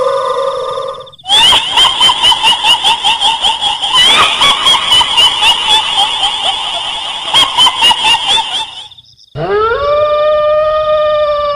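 Horror sound effect: a held, pitched wail fades out about a second in. It gives way to shrill, rapid ghost laughter, about three cackles a second, for some seven seconds. Near the end a dog's long howl rises and is held.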